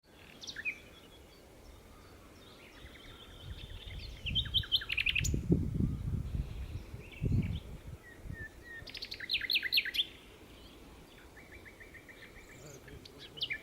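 Common nightingale singing in separate phrases with pauses between: rapid runs of repeated notes, short whistled notes and a held buzzy tone. A low rumble sits under the song from about four to eight seconds in.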